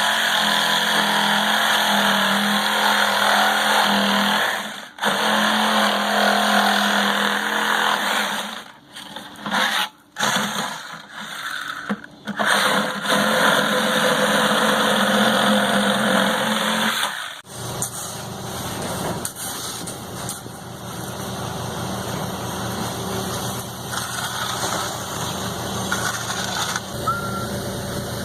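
An engine running, loud and noisy with a steady hum at first and several brief dropouts. About two-thirds of the way through it changes suddenly to a steadier, lower engine sound.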